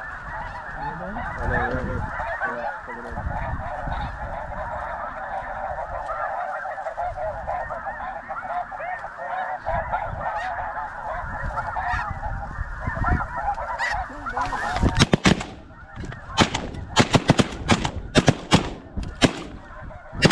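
A large flock of snow geese calling: many high, yelping honks overlap into a continuous din. About three-quarters of the way through, a volley of roughly ten shotgun shots fires in quick succession over about five seconds.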